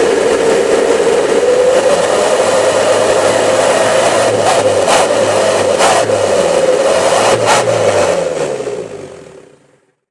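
Mitsubishi L300 engine revving through a homemade 'wolf' (srigala) exhaust, a steady howling tone riding over the engine as the revs rise and fall. A few sharp clicks come in the middle, and the sound fades out near the end.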